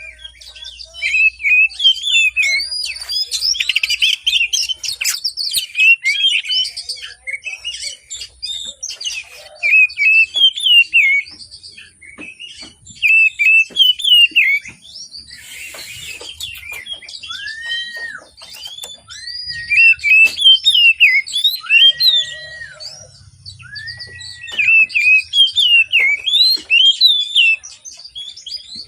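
Oriental magpie-robin singing energetically: a fast, varied stream of chirps and whistles with few pauses, and four slower arched whistled notes in the latter part.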